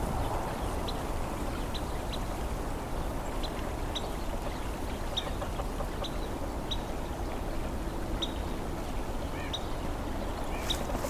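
Carolina wren giving short, high peep calls, about a dozen, spaced irregularly.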